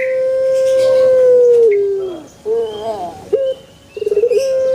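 Puter pelung, a Barbary dove (Streptopelia risoria) kept for its long coo, cooing. A long held note slides down at its end. Then comes a short warbling phrase, and near the end a brief stuttering roll runs straight into a second long held note.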